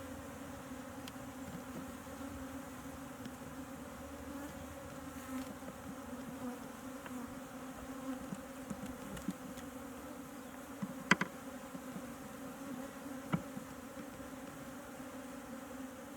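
Honeybees buzzing in a steady drone around an opened hive. A few sharp clicks or knocks cut in, the loudest about eleven seconds in and another about two seconds later.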